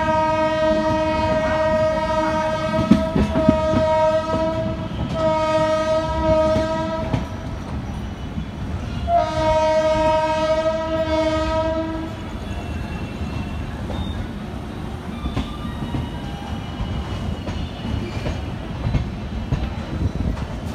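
Train horn sounding three long blasts, the first already going at the start and the last ending about twelve seconds in, over the rumble and rattle of a moving train's wheels on the track. After the horn stops, only the rumble of the train running on.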